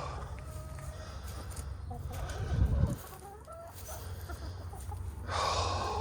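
Chickens clucking in short, scattered calls, with a dull low thump about two and a half seconds in and a louder call near the end.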